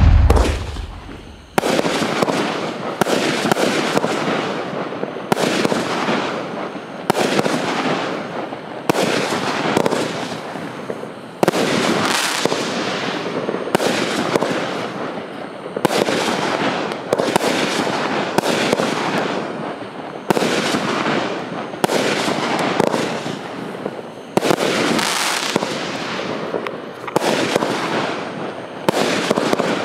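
A 33-shot fan-shaped fireworks compound cake (Rain Storm) fires its shots one after another, a sharp bang about every second or so. A steady hiss fills the gaps as the golden bouquets burn. A loud boom dies away over the first second and a half.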